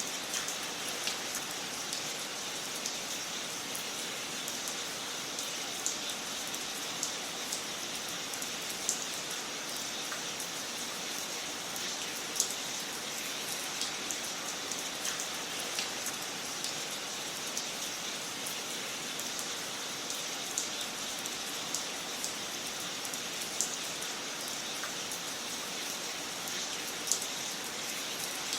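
Wood fire crackling in a fireplace: a steady hiss with frequent small, sharp pops, one louder pop near the middle.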